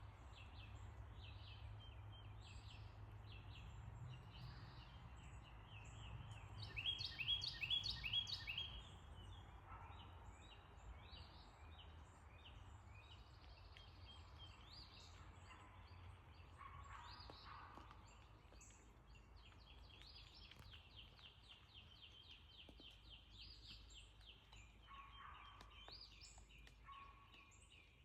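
Faint outdoor birdsong: repeated high chirps and trills, with a louder run of rapid notes about seven seconds in, over a low steady rumble.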